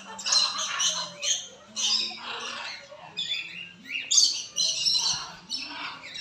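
Aviary birds squawking, a run of repeated harsh calls, some short and some drawn out.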